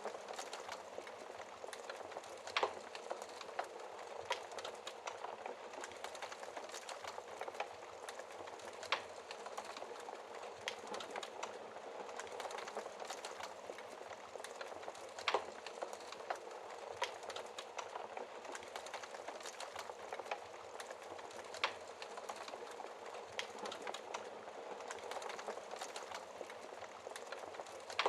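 Wood fire crackling in a fireplace: a steady hiss from the burning logs with frequent small crackles and a few sharper, louder pops scattered through.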